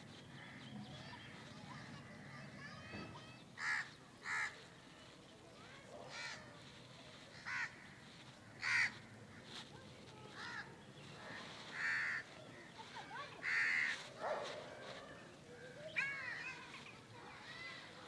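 Birds calling: a string of short, harsh calls every second or two, with a few quick arching calls near the end.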